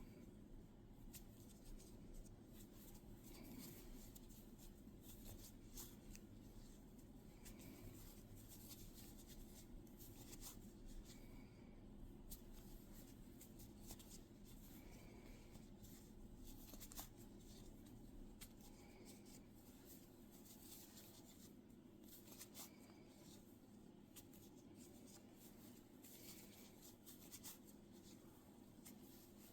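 Faint rustling of yarn and light clicks of a crochet hook working stitches, scattered and irregular, over a low steady room hum.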